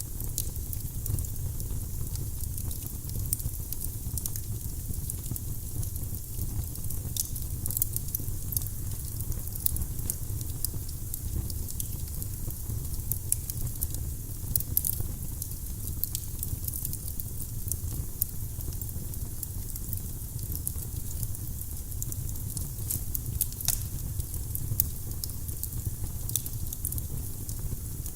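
Firewood burning in a fireplace, crackling with irregular sharp pops and snaps over a steady low rumble.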